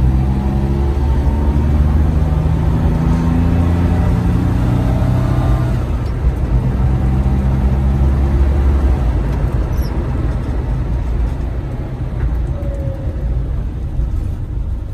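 Car being driven: engine and road noise, a steady low hum whose pitch shifts in steps, easing off to a lighter rumble about nine seconds in.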